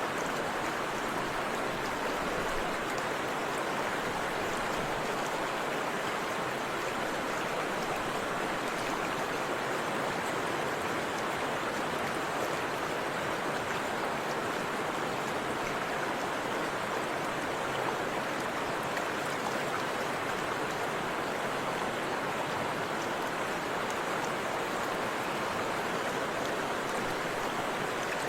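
Forest river and waterfall: rushing water, a steady even wash with no breaks.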